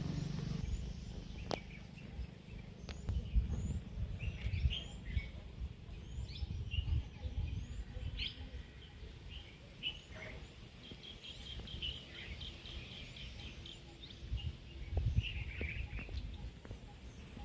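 Small birds chirping outdoors, with scattered short calls and a quick run of repeated high notes near the middle. Under them, wind rumbles on the microphone in uneven gusts.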